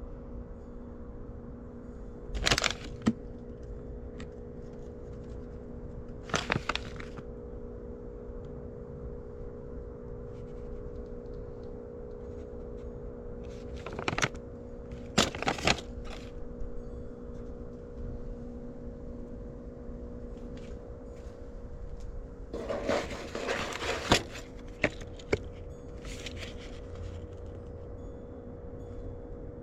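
Rummaging through trash in a dumpster: scattered sharp cracks and short crinkling bursts as plastic and other items are handled and moved, busiest about three-quarters of the way through, over a steady hum.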